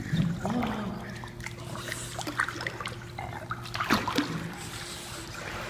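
Pool water trickling and lapping, with small splashes, as a dog moves at the edge of a swimming pool. A steady low hum runs underneath.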